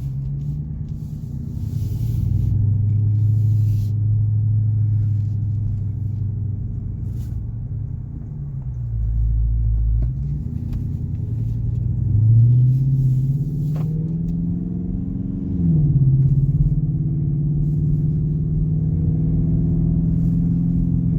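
2019 Dodge Charger R/T's 5.7-litre HEMI V8 running through Black Widow Neighborhater mufflers with the resonators deleted, heard from inside the cabin while driving: a low exhaust drone that holds steady, falls off twice as the car eases off, and climbs once as it accelerates.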